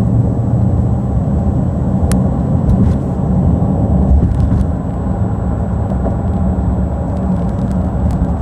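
A loud, steady low rumble of a vehicle running or on the move, with a single sharp click about two seconds in.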